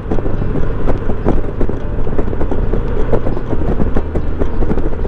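Honda Gold Wing motorcycle riding at highway speed: a steady low engine and road hum under irregular wind buffeting on the microphone.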